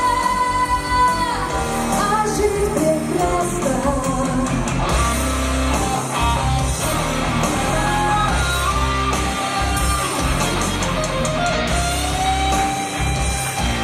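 A song: a singer holds one long note, then sings a winding melody over a band with guitar. A heavy bass and drum beat comes in about four seconds in.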